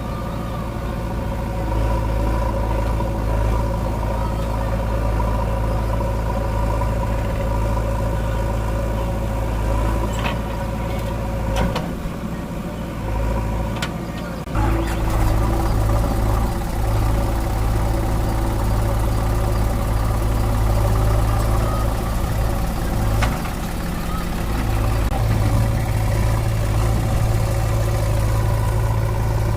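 Heavy diesel engine running steadily under load. The note drops for a couple of seconds about twelve seconds in, then comes back stronger. A few sharp clicks are heard.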